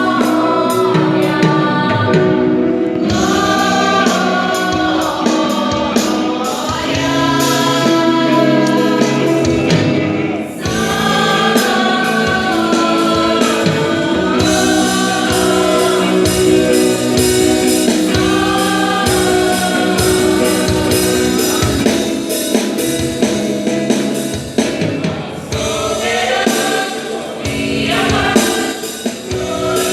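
Gospel song sung by a vocal group in several-part harmony, with instrumental backing and a steady beat.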